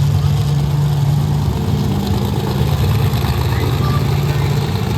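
Monster truck engine running steadily at idle, low and even, its pitch shifting slightly about two seconds in.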